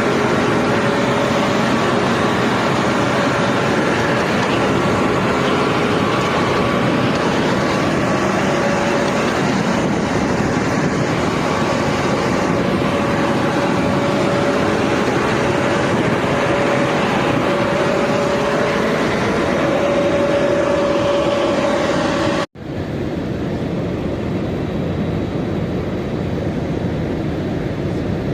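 Airbus A321-200 cabin noise: a steady rush of engines and airflow with a faint steady whine. About 22 seconds in it cuts off sharply and resumes a little quieter and duller.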